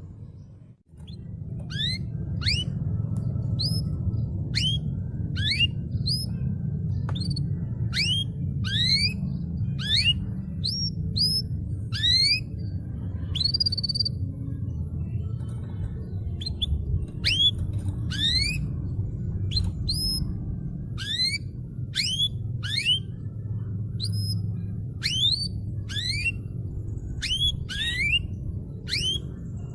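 Canary song tutoring recording: short whistled calls that each sweep upward, repeated about once a second, over a steady low hum, with a brief dropout just under a second in.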